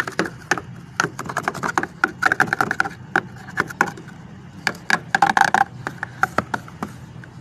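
Many sharp, irregular knocks and cracks, with crunching scrapes, as ice is knocked and chipped off a frozen car door and its door jamb to free it.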